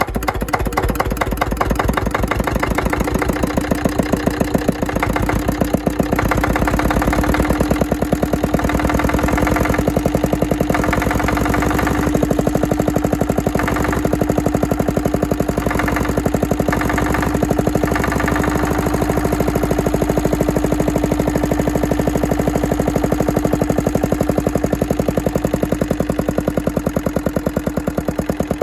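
Andoria S15 single-cylinder diesel engine running with a steady, even beat of firing strokes. It picks up speed and gets louder about five seconds in, and slows again near the end.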